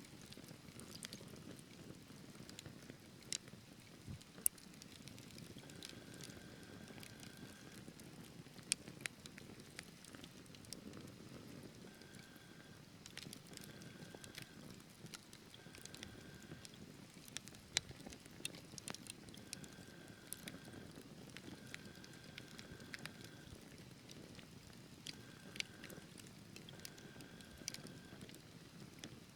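Wood fire burning in a fireplace: a low rumble of flames with sharp crackles and pops every second or so. A faint high whistling tone comes and goes several times.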